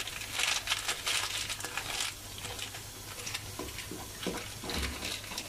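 Chickpeas, onions and spices frying in hot oil in an aluminium pot, sizzling, while a wooden spatula stirs and scrapes the pot. The sizzle is strongest for about the first two seconds, then quieter, with scattered scrapes and knocks.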